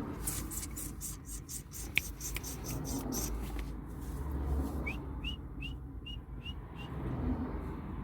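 Budgerigar giving a run of about six short, high, rising chirps in quick even succession about five seconds in, after scattered sharp clicks.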